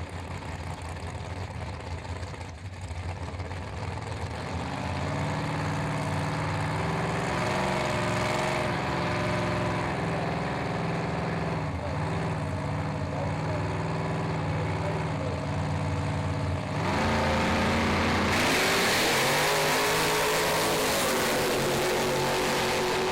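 Two drag-race cars at the starting line with their engines held at a steady pitch. About 17 seconds in they launch at full throttle, louder and rising in pitch, and the pitch then rises and falls through the gears as they run the eighth-mile.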